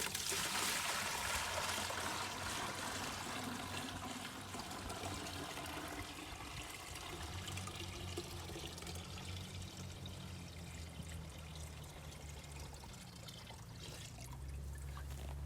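Water pouring into a 5-gallon plastic bucket that feeds a gravity chicken waterer. It starts suddenly, is loudest in the first couple of seconds, and grows gradually quieter.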